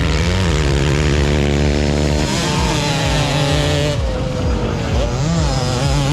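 Motocross dirt bike engines running hard, their pitch dipping and climbing again a couple of times as the throttle is worked.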